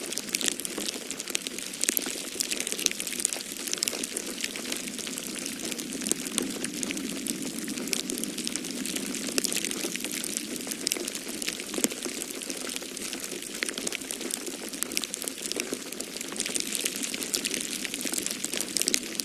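Wood fire crackling in a fireplace: a dense, irregular run of small pops and snaps over a steady rushing background of snowstorm wind.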